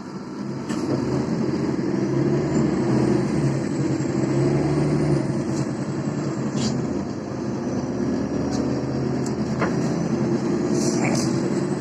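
Cabin noise of a MAZ-203 city bus under way: engine and drivetrain running, getting louder about a second in as the bus pulls off. A faint high whine glides up and down, and a few sharp rattles and knocks come through.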